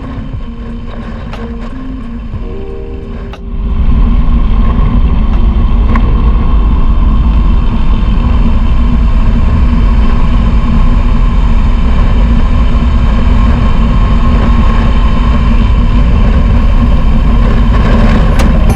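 Soft background music, then about three and a half seconds in a cut to the loud, steady sound of a Royal Enfield Himalayan 411's single-cylinder engine running, heavy in the low end.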